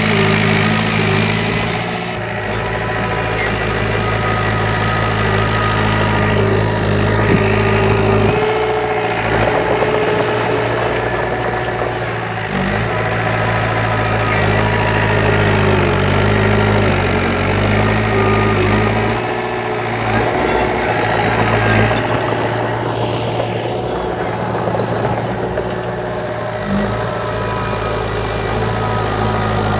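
Diesel engine of heavy earthmoving machinery running steadily, its pitch shifting down and back up a few times.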